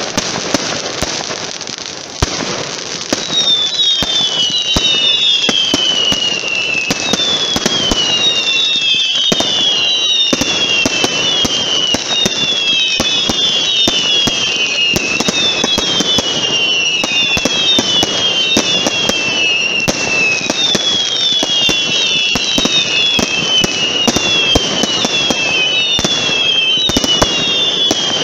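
Fireworks going off: a quick string of cracks and pops, and from about three seconds in, many overlapping whistles that each fall in pitch, one after another without pause.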